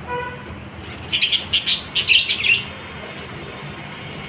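Pet lovebirds giving a quick run of sharp, high chirps, starting about a second in and lasting about a second and a half.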